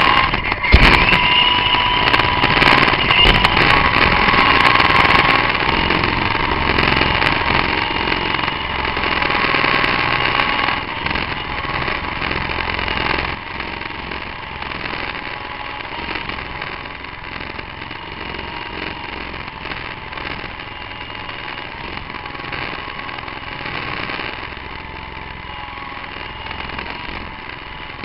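Large QS8008 remote-control helicopter's electric motors and rotor blades whining and whirring as it tries to hover, the pitch rising in the first couple of seconds. A sharp knock comes just under a second in, and the sound drops to a lower, steadier level about 13 seconds in.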